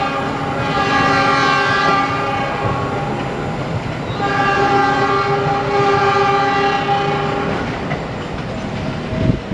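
Diesel locomotive horn sounding two long blasts, about two seconds apart, over the rumble and wheel clatter of a passing passenger train.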